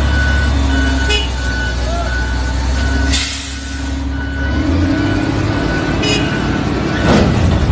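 Heavy truck engine running, with a high beep repeating on and off and a short hiss about three seconds in; the engine pitch then rises, as if revving or pulling away.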